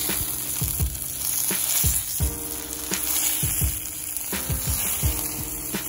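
Eggs and tomato slices sizzling in butter in a cast iron skillet over campfire coals: a steady frying hiss. Background music with a low beat plays underneath.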